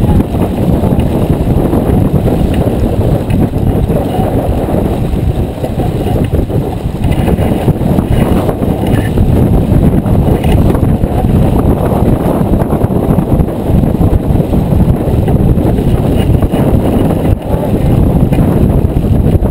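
Strong wind buffeting the microphone aboard a J24 sailboat under way, a loud, steady low rumble.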